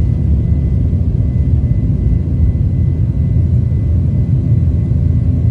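Boeing 737 jet engines and airframe heard from inside the passenger cabin during takeoff: a loud, steady low rumble with a faint steady whine above it.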